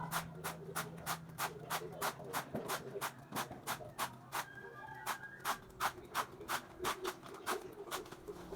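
A rapid, regular series of short, sharp strokes, about three a second, with a pause of about a second near the middle.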